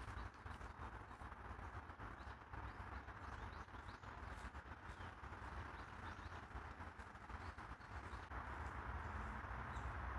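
Faint outdoor park ambience: a steady low hum of distant city traffic, with scattered small bird chirps and light ticks of footsteps on the path.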